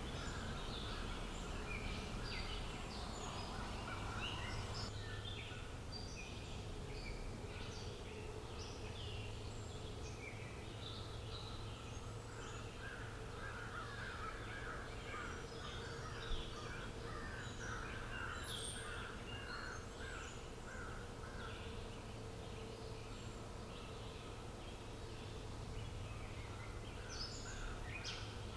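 Outdoor ambience of several birds chirping and calling in short, overlapping notes, with a run of lower, quicker chirps in the middle, over a steady low background hum. There is one brief sharp click about halfway through.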